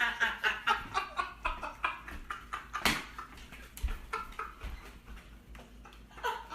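An animal making a rapid run of short, pitched calls, about four or five a second, thinning out in the middle and picking up again near the end.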